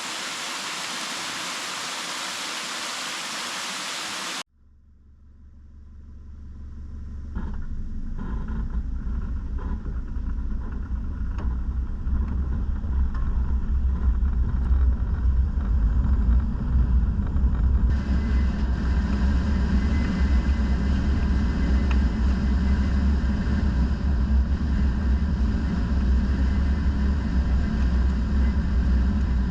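A few seconds of steady rushing water from a gorge waterfall cut off abruptly. Then a Mazda BT-50 four-wheel drive is heard driving as a deep, steady rumble that fades in and stays loud, with a few knocks from the rough road.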